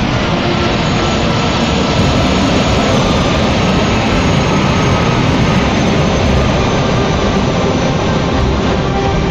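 Jet airliner's engines running loud and steady: a dense rushing noise with a faint high whine that slowly falls in pitch.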